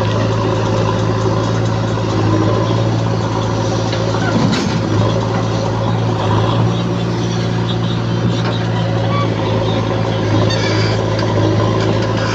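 Diesel engine of heavy earthmoving machinery running steadily at constant speed, an even loud hum.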